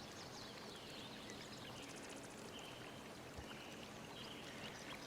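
Faint steady background hiss with a few faint, distant bird chirps.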